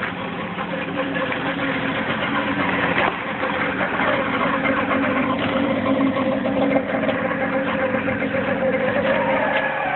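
AWS Shopper microcar's small 0.2-litre two-cylinder engine idling steadily while the car stands still.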